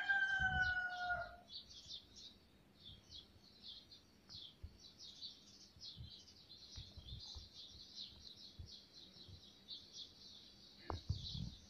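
Faint birds chirping in a quick, unbroken run of short high twitters, with a few soft knocks near the end.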